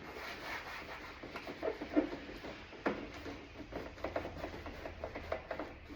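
A rag wiping acetone over a plastic car door panel: irregular small squeaks and ticks as the cloth drags across the plastic.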